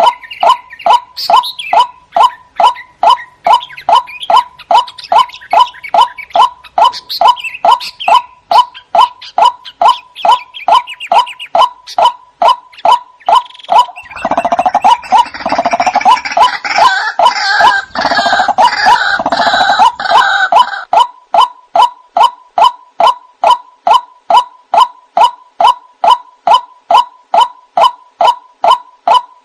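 White-breasted waterhen (ruak-ruak) calling: a short call repeated steadily, about two a second. About halfway through, a louder, harsher stretch of overlapping calling lasts some seven seconds.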